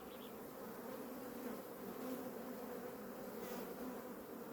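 Honeybee colony buzzing in a steady hum around an open hive as its frames are inspected.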